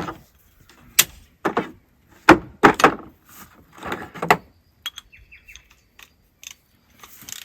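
Hand tools and metal parts being handled and set down: a string of sharp clanks and knocks, with a short run of light metallic clicks about five seconds in.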